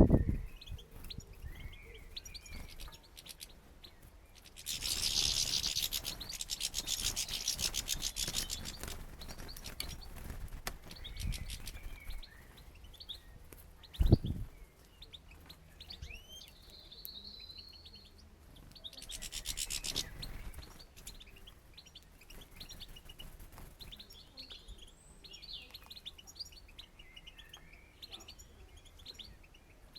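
Small songbirds chirping and twittering in many short calls. Two stretches of scratchy rustling, one about four seconds long early on and a shorter one past the middle, and two sharp knocks, one at the start and one about halfway through.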